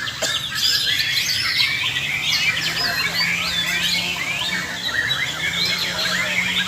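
Many white-rumped shamas singing at once, a dense, unbroken tangle of overlapping whistled phrases, trills and chattering calls, as at a songbird contest.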